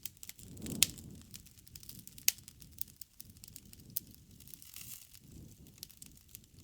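Campfire crackling: wood fire popping and snapping at irregular intervals over a soft low rush of flame, with two sharper pops about a second in and a little after two seconds in.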